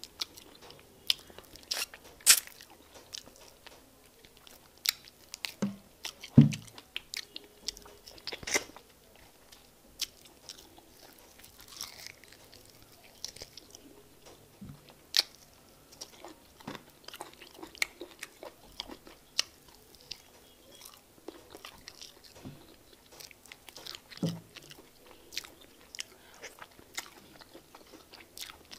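Close-up chewing and wet mouth smacks of a person eating fufu and egusi soup by hand, with many short sharp clicks at irregular intervals. A few low thuds stand out, the loudest about six seconds in.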